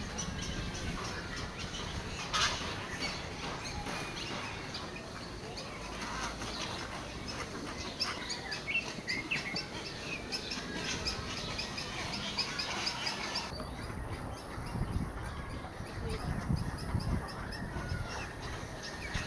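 Birds calling: many short, high chirps, thickest in the middle stretch, over a steady background, with a few low rumbles near the end.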